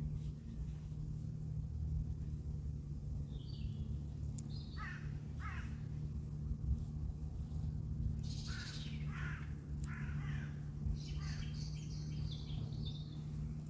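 Bird calls, harsh and caw-like: two about five seconds in, a run of four between eight and ten seconds, then higher, quicker calls near the end. A steady low hum runs underneath.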